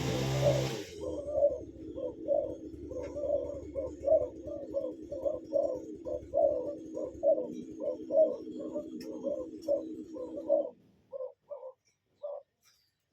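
A bird calling in short, low notes, repeated about two or three times a second over a steady low hum. The calls thin out to a few scattered notes near the end. A louder, noisy sound stops about a second in.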